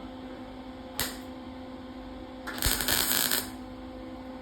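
MIG (wire-feed) welder laying a spot weld to fill a hole in sheet steel: a short crackle about a second in, then a crackling burst lasting about a second. A steady low hum runs underneath.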